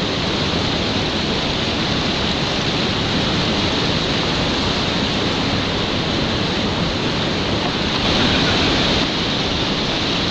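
Rushing whitewater of a river rapid: a loud, steady, even rush of water with no break.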